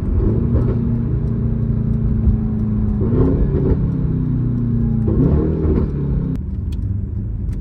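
Straight-piped Mercedes-AMG GT63 S twin-turbo V8 engine and exhaust heard from inside the cabin while driving: a steady drone that climbs in pitch about three seconds in and again about five seconds in, then drops away sharply a little past six seconds.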